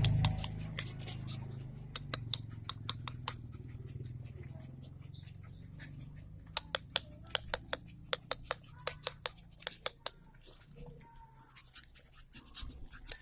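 An irregular series of short, sharp clicks and taps in clusters, over a low steady hum that fades away.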